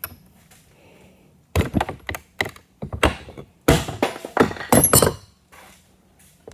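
A quick, uneven run of hard metal knocks, about a dozen over three and a half seconds starting a second and a half in: a hammer tapping the threaded end of a tractor's hydraulic steering cylinder to free the thread without a spanner wrench.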